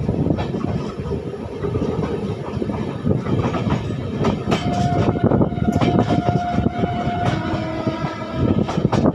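Passenger train running along the track, its wheels clattering irregularly over the rails with a steady rumble. A thin held tone sounds for a few seconds midway.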